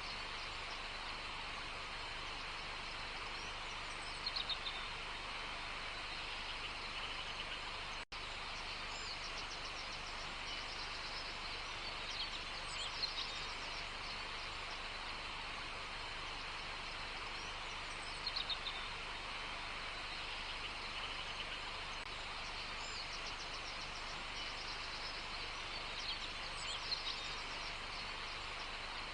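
Birds chirping in short flurries, a few times, over a steady outdoor hiss. The sound cuts out for an instant about eight seconds in.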